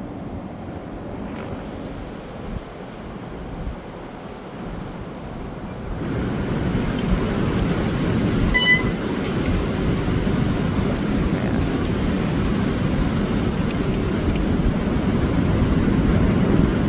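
Wind rushing over the microphone and tyre noise from an e-bike riding across a bridge deck, growing louder about six seconds in as the ride picks up. A short high squeak sounds near the middle.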